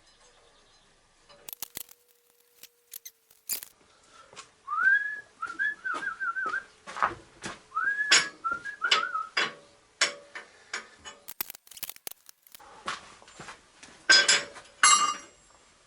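Metal pieces clanking and clinking as offcuts are rummaged through, with a person whistling two short wavering phrases about five and eight seconds in. The clatter is loudest near the end.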